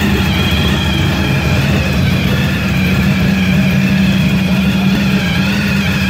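Supercharged engine of a blown Holden Torana idling steadily, a low rumble with a steady high whine over it.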